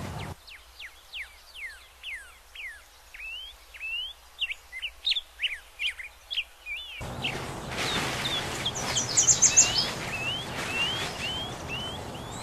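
Songbirds chirping: a quick series of clear whistled notes, first sliding down in pitch, then rising. For about the first seven seconds the chirps stand alone over near silence; after that a steady outdoor hiss comes in and the chirping goes on, with a brief cluster of higher notes.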